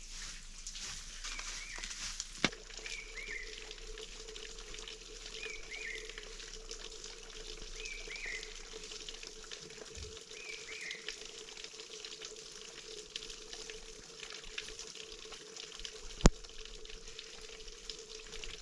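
Rice frying in a pan, a steady sizzling hiss, with a short chirp every couple of seconds early on and two sharp clicks.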